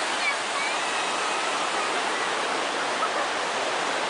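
Waterfall rushing with a steady, even sound of falling water.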